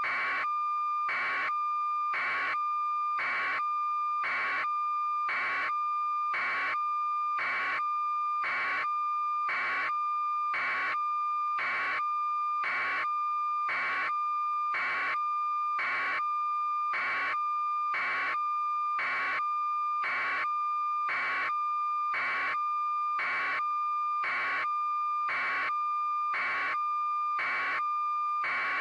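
A steady electronic tone with a beep pulsing about once a second, unchanging throughout.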